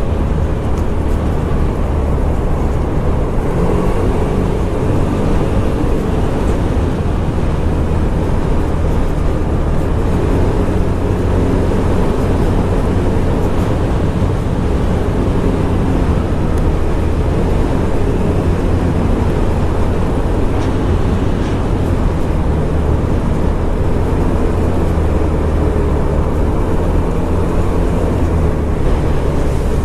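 Scomadi TT125 scooter's 125cc single-cylinder engine running steadily under way, with its note rising and falling a little with speed, over wind and road noise.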